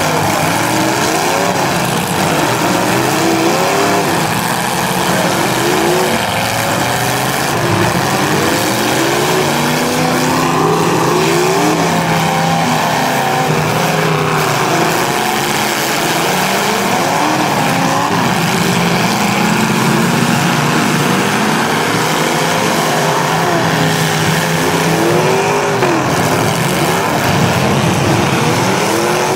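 Engines of several demolition derby cars revving up and down at once, loud and continuous, their pitches rising and falling over one another.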